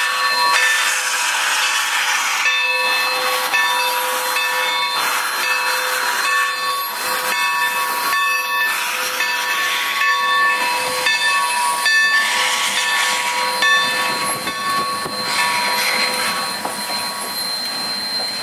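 Steam locomotive whistle sounding in a run of chime tones that start and stop, over continuous hissing steam.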